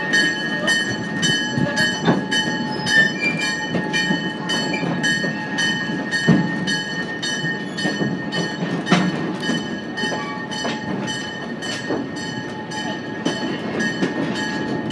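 Train running on the rails: a steady rumble with a regular light clicking about three times a second and a few heavier knocks, under faint steady tones.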